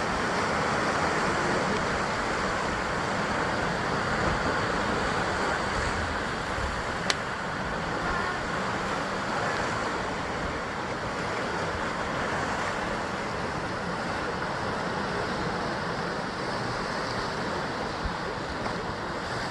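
Sea waves washing against a basalt rock coast: a steady, continuous rush of surf, a little louder in the first few seconds, with one sharp click about seven seconds in.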